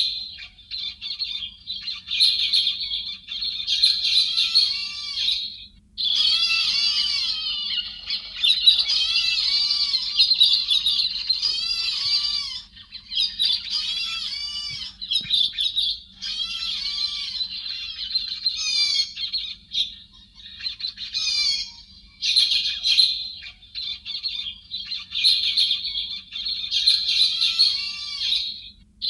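Recorded héc xoan bird calls used as a trapping lure: many fast, overlapping, high-pitched chattering and squawking calls in bursts of a few seconds, broken by short pauses.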